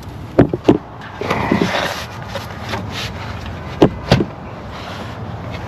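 Hand work on engine intake parts: two pairs of sharp clicks and knocks, about half a second in and again near four seconds, with a scraping rustle between them as parts are handled and fitted.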